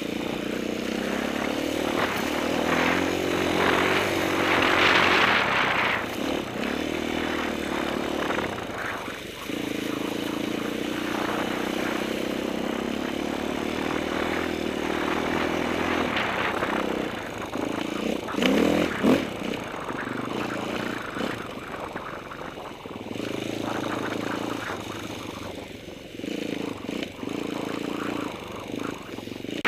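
Enduro motorcycle engine running as the bike is ridden, its revs rising and falling with the throttle, with louder bursts of revving about five seconds in and again past the middle.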